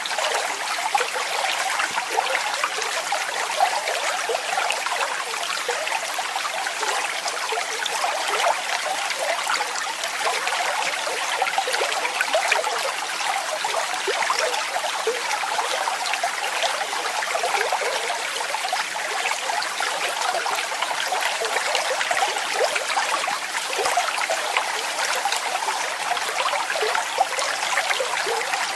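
Water falling and splashing steadily, a bright, even rush with little deep rumble.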